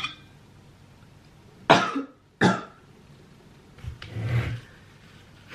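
A woman coughing twice in quick succession about two seconds in, then clearing her throat, her voice rough from having just woken up feeling unwell.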